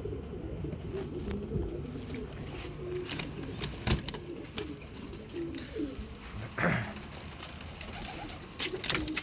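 Domestic pigeons cooing in a loft, low wavering calls going on throughout, with a few sharp clicks or knocks in between.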